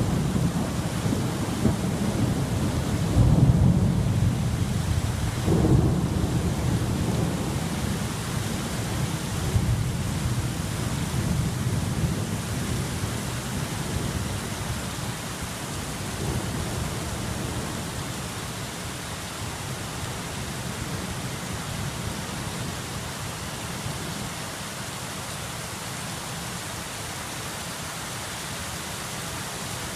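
Thunder rumbling over steady rain, loudest in the first several seconds with two swells, then dying away and leaving the rain.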